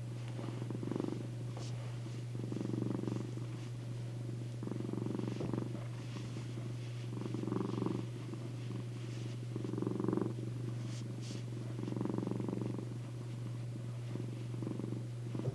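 Domestic cat purring close to the microphone while resting on a lap, the purr swelling and fading with its breathing, a stronger swell roughly every two seconds. A steady low hum runs underneath.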